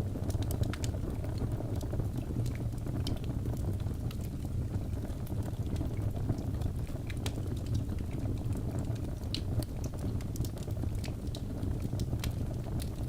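Birch logs burning in a fireplace: a steady low rumble of flames with frequent sharp, irregular crackles and pops.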